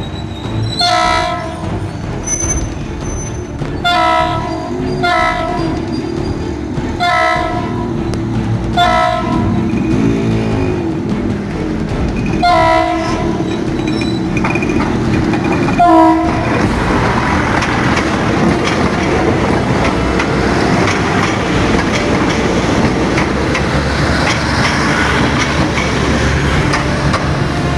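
Philippine National Railways DMU 8001 sounding its horn in about eight short blasts as it arrives. About sixteen seconds in, the horn stops and the train's engine and wheels run past in a steady loud rush.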